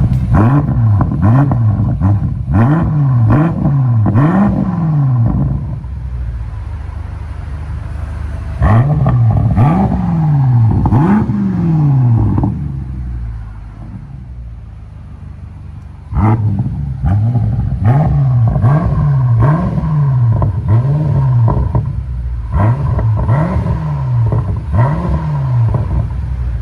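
2023 BMW X5 M Competition's twin-turbo V8 through a Kinney's Street Demon cat-back performance exhaust, revved in quick repeated throttle blips. There are four bunches of four to six revs, with the engine settling back to a steady idle between them.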